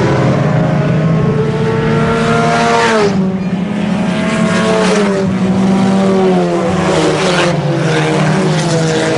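Several IMCA Sport Compact race cars' four-cylinder engines running hard in a pack, their pitch falling as cars go by about three seconds in, again around five to six seconds, and near the end.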